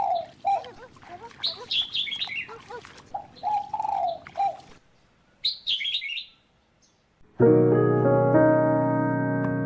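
A bird calling repeatedly in short, bending calls, with one last call about a second after they stop. Piano music starts about three-quarters of the way through.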